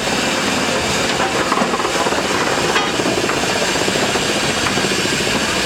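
Steady, loud rushing and hissing noise of a train.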